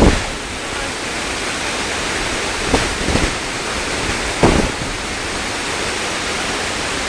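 Waterfall rushing in a steady, loud wash of noise, with a few brief low thumps about three seconds in and again past the middle.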